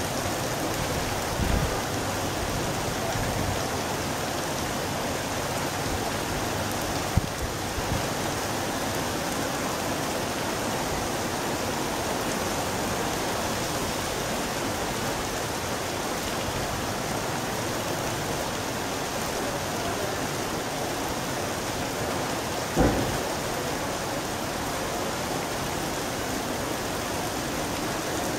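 Steady rain falling, an even hiss. There is a brief low thump early, a sharp click about seven seconds in, and a louder low thump near the end.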